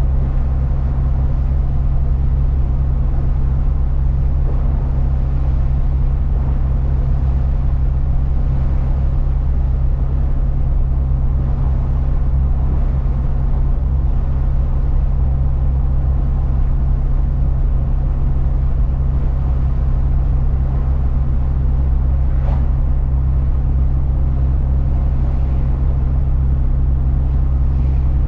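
A truck driving along at a steady pace: a constant low engine drone and road noise, with no change in speed or pitch.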